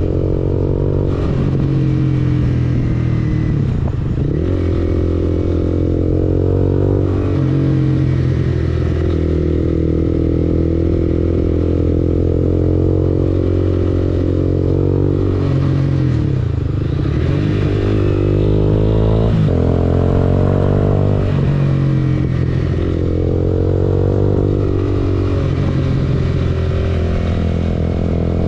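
Honda CBR250R's single-cylinder engine running through an Akrapovic exhaust, holding steady revs for stretches, with the pitch dropping and climbing again several times.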